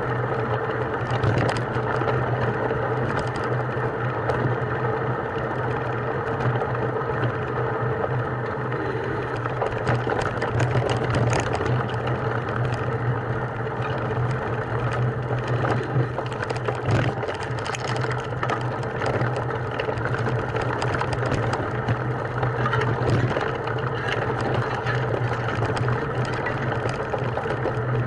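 A motor running steadily at an even pitch, with scattered clicks and knocks over it.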